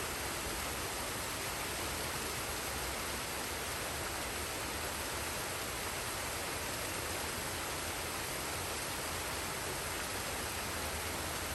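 Waterfall and stream water rushing steadily, an unbroken even hiss.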